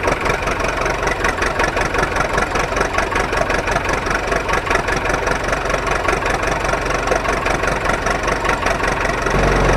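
Small DC motor of a homemade matchbox toy truck running, a steady fast buzzing whir.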